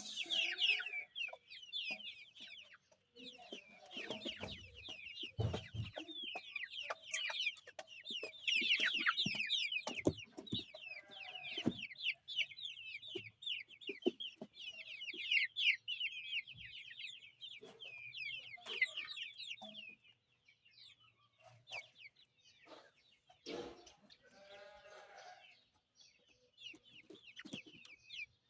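A brood of young Zagorsk Salmon chicks peeping: many short, high, falling peeps overlapping in a dense chorus that thins to scattered peeps after about twenty seconds. Scattered knocks are heard among them.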